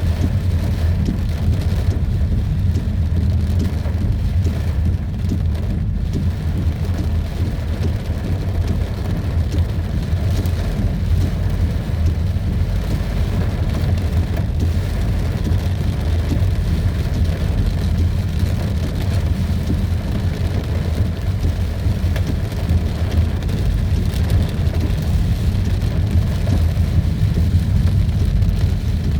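Heavy rain pouring steadily over a deep, constant low rumble.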